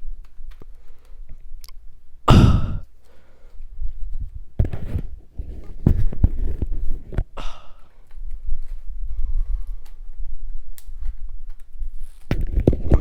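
A person sighing heavily in frustration, a loud breathy exhale about two seconds in and a shorter one around seven seconds, between short clicks and knocks from handling plastic vacuum cleaner parts.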